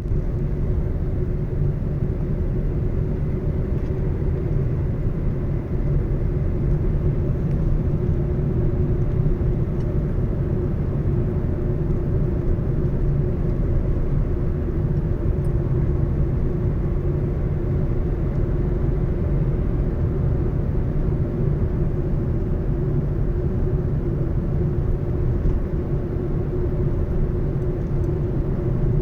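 Car driving on a road: a steady, even low rumble of engine and tyres with no changes.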